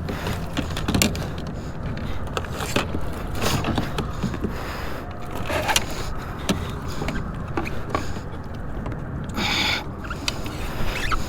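Irregular clicks, knocks and scrapes of handling on a kayak as a landed fish is dealt with, over a steady low rumble.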